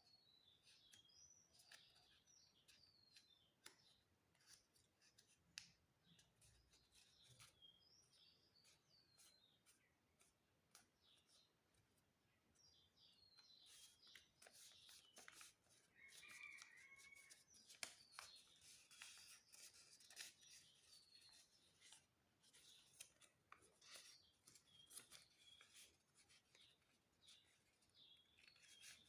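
Faint paper crinkling and creasing in many short clicks, with small birds chirping in the background.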